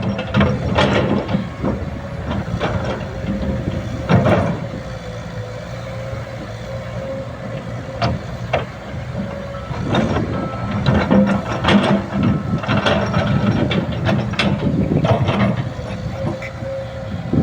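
Excavator's diesel engine running steadily, with a constant whine and frequent irregular clanks and knocks from the machine working, busiest in the second half.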